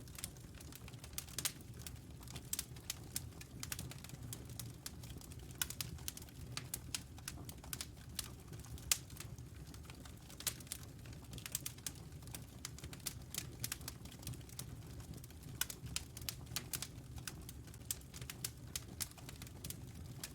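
Wood fire crackling in a fireplace: frequent irregular sharp pops and snaps over a low, steady rumble from the burning.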